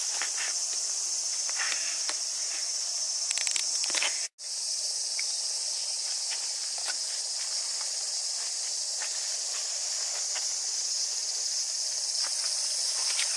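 Steady, loud, high-pitched drone of a cicada chorus, with scattered footsteps on a path near the start and end. The sound cuts out for an instant about four seconds in.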